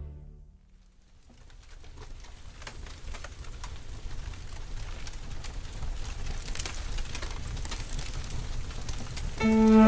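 Rain pattering with a low rumble, fading in and growing slowly louder; pitched music comes back in just before the end.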